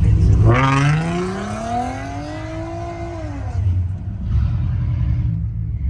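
A vehicle engine accelerating hard, its note climbing steadily for about two and a half seconds before dropping away, over a steady low rumble.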